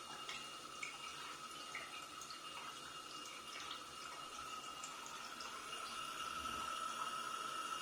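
Water tap dripping, with quick, irregular drops plinking several times a second over a steady high tone.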